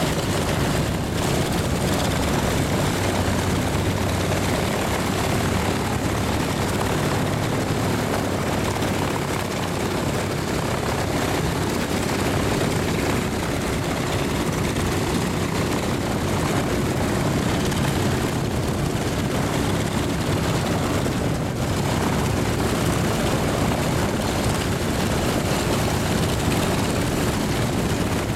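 Douglas DC-3's piston radial engines and propellers running steadily.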